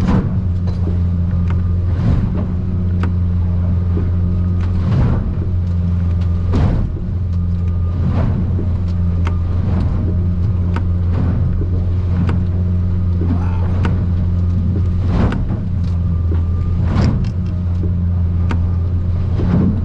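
Boat's outboard engine droning steadily under way, heard inside the closed cabin, with the aluminium hull knocking and slapping against the waves every second or two while running through rough water.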